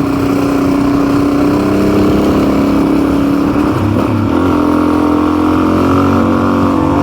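Custom motorcycle's engine running under way on a ride, pitch creeping slowly upward, with a brief change in engine note about four seconds in.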